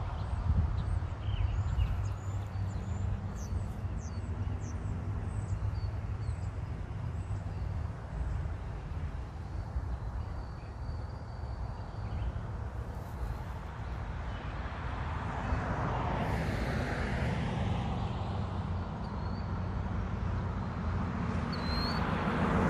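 Low, steady rumble of a CSX freight train, growing louder near the end, with birds chirping faintly over it at times.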